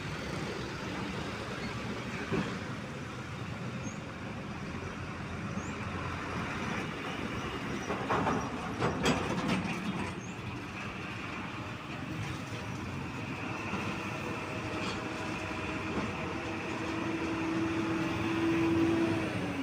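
Heavy road-vehicle noise, engines running steadily, with a short cluster of knocks about eight to ten seconds in. Near the end a steady hum comes in and drops in pitch as it ends.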